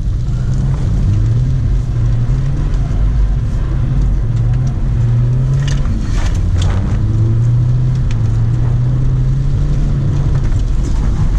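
BMW E46 320d's M47 four-cylinder turbo diesel engine running hard under load, its pitch climbing and dropping back twice as the car is driven through a slide. A few short clicks or knocks come about six to seven seconds in.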